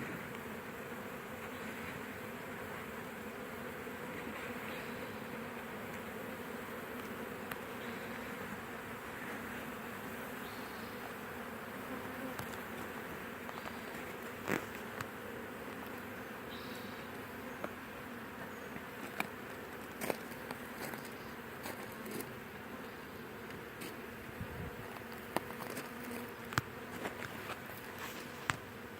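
A honeybee swarm buzzing in a steady, dense hum as the bees crowd into the hive. A few short clicks are scattered through it, more often in the later part.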